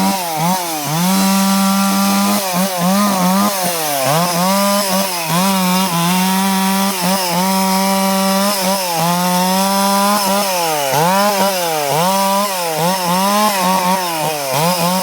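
Stihl 066 two-stroke chainsaw running at full throttle while cutting eucalyptus wood. Its engine note keeps dipping and climbing back, about once a second, as the chain bogs down under load in the cut and recovers.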